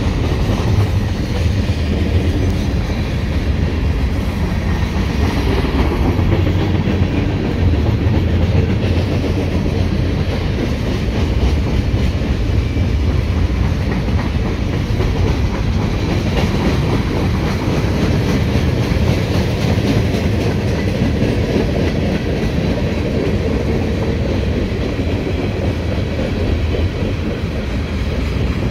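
Mixed CN freight train's cars rolling past: a steady rumble of steel wheels on rail with repeated rapid clicking throughout.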